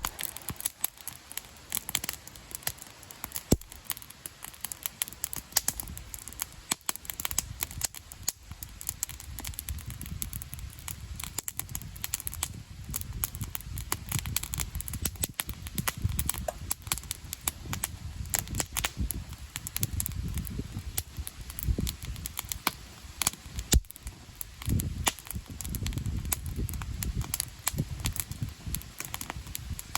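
Wood campfire crackling, with frequent sharp pops and snaps at irregular intervals over a low rumble.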